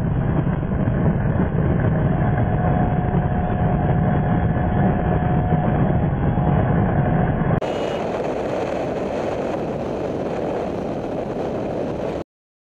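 Motorcycle riding sound: engine running with heavy wind rush on the microphone, steady and loud. About eight seconds in the sound changes suddenly, brighter and a little quieter, and it stops dead near the end.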